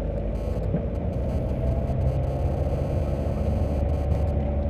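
Car engine and road noise heard inside the cabin while driving: a steady low rumble with a faint engine hum that rises slowly in pitch.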